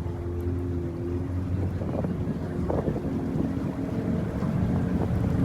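Airboat engine and propeller running steadily, with wind buffeting the microphone.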